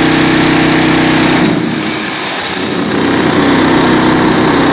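Concrete-cutting saw running loudly with a steady engine drone; it drops off briefly about one and a half seconds in, then picks back up and runs on.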